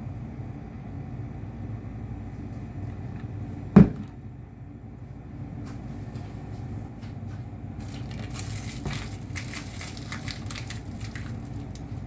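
A steady low rumble, a single loud thump about four seconds in, then irregular crackling and crinkling noises through the second half.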